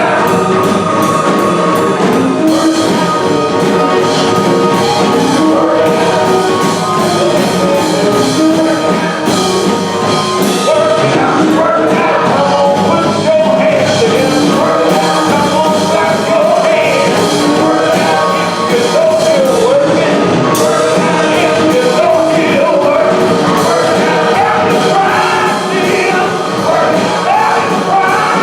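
Gospel singing with instrumental accompaniment and a steady beat.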